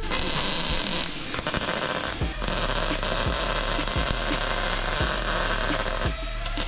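MIG welder laying a weld on a steel bracket: a steady crackling, sputtering hiss in a few bursts, broken by brief pauses about a second in, just after two seconds and near the end.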